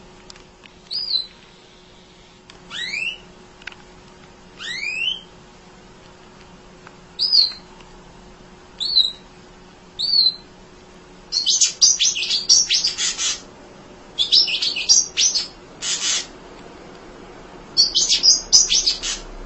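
Emprit (munia) calling and singing: a few short single high chirps and two quick rising upswept calls, then from about halfway through, rapid bursts of high chattering twitter.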